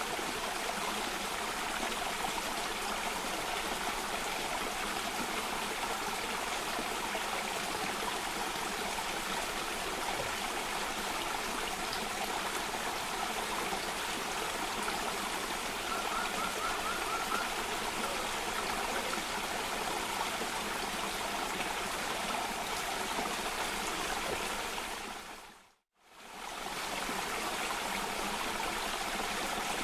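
Steady rushing of water flowing over a small cascade in a stream. Near the end it fades briefly to silence and straight back in, like a loop point.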